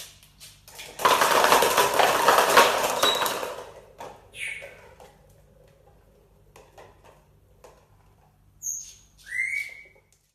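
A parrot flapping its wings for about three seconds, then a few short whistled calls near the end.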